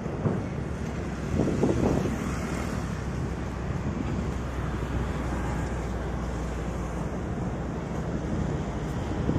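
Wind buffeting the microphone over open sea, with a steady low rumble underneath and a brief louder gust about one and a half seconds in.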